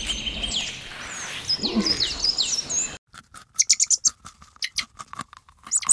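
Small birds chirping in quick falling whistles for about three seconds. Then the sound changes abruptly to a rabbit nibbling leaves: a quick, irregular run of crisp crunching clicks.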